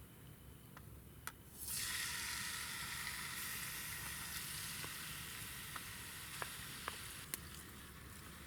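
Sizzling in a hot cooking pot on a small wood-burning camp stove. It starts suddenly about two seconds in and slowly dies down, with a few faint clicks.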